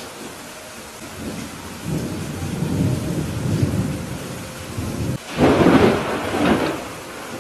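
Thunderstorm: steady rain with thunder rumbling low, building over a few seconds, then a louder, sharper crack of thunder about five seconds in that fades over a second or so.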